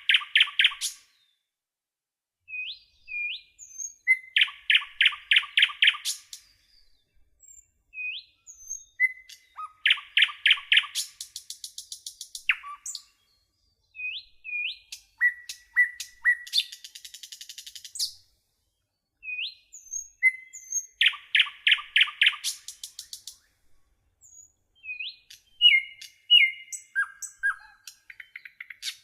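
A songbird singing in repeated phrases: a short clear note, then a quick loud run of about six notes, coming back every five or six seconds, with high thin trills and upslurred chips between the phrases.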